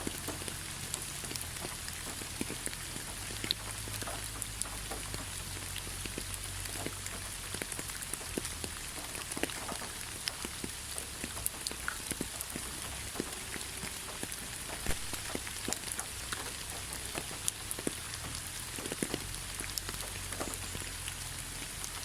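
Steady rain falling in a forest, a constant hiss with many scattered individual drops ticking and pattering throughout, over a low rumble.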